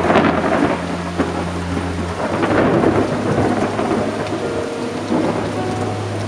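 Thunder rumbling and crackling through a thunderstorm, loudest near the start and again around halfway, over a steady hiss of rain.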